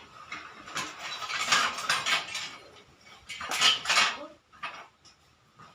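Metal objects clattering and clinking in irregular bursts, the loudest about a second and a half in and again around three and a half seconds in.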